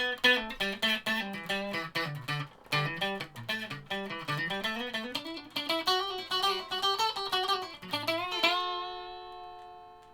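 Electric guitar with a multi-pickup Strat wiring, its pickups combined in parallel and out of phase, playing a quick single-note riff. About eight seconds in, a chord is struck and left to ring, fading away.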